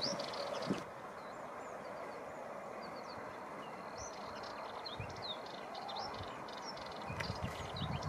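Small birds calling: many short, high chirps and thin whistles scattered throughout, over a steady outdoor hiss, with low rumbles near the start, about five seconds in and near the end.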